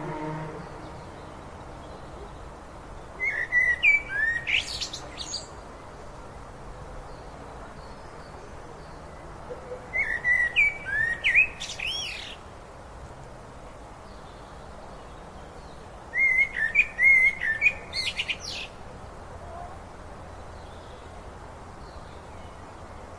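A songbird singing three short phrases of whistled, rising and falling notes and trills, each about two seconds long and roughly six or seven seconds apart, over the steady rush of a flowing river.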